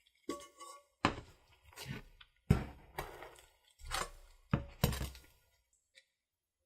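Kitchen knocks and clinks: about eight separate sharp knocks of dishes or utensils being handled and set down, spread irregularly over about five seconds.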